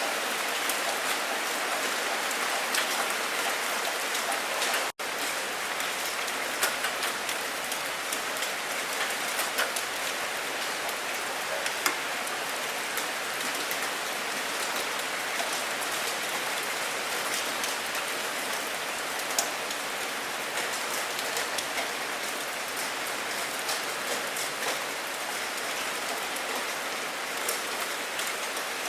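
Steady rain falling, a constant hiss with many individual drops ticking on a surface. The sound drops out for an instant about five seconds in.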